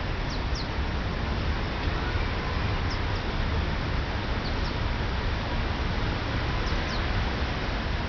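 A small bird calling in short, high chirps, in quick pairs about four times, over a steady low rumble of background noise.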